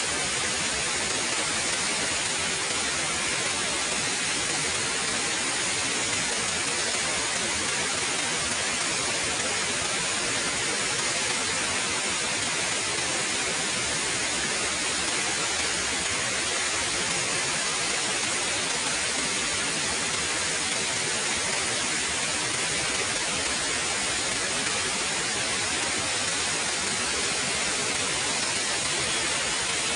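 Waterfall: falling water as a steady, even rush with a bright hiss and no break or change.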